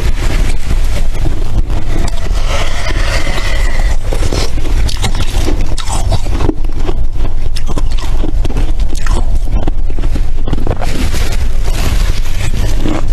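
Packed freezer frost being scraped and bitten close to the microphone: dense, irregular crunching with squeaky moments, over a steady low rumble.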